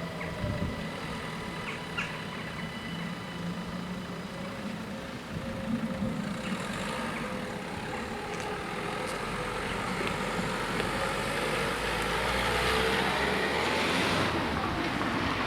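A road vehicle passing over the level crossing: engine and tyre noise that grows louder over the last several seconds.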